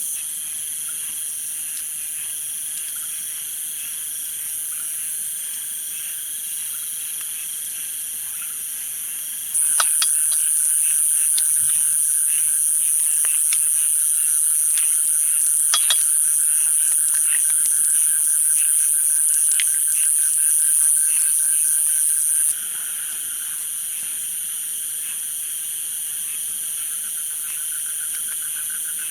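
Steady chorus of insects and frogs: a high continuous trilling with lower, steady calling beneath it. About ten seconds in, a louder high-pitched buzz sets in abruptly, with scattered light ticks, and it cuts off just as suddenly near the two-thirds mark.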